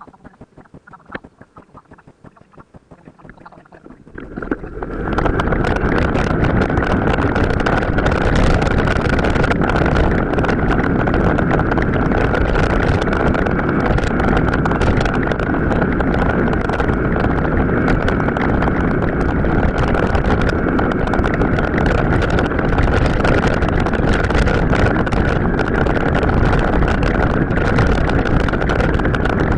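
Wind rushing over the camera microphone, mixed with the rumble of a mountain bike's tyres and drivetrain on an off-road trail, played back at several times normal speed. For the first four seconds it is quieter, with scattered ticks. It then swells into a steady, loud rush.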